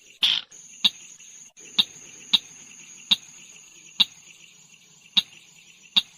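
Short, sharp 'tut' call notes of the tut-tutan merah bird, repeated at uneven gaps of about a second. Under them runs a steady high-pitched insect trill.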